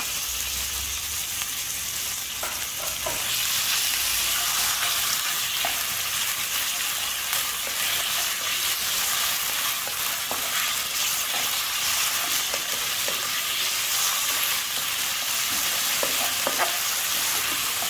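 Diced raw chicken sizzling in hot oil and garlic in a nonstick wok, stirred with a wooden spatula that gives light taps and scrapes against the pan. The sizzle grows louder about three seconds in.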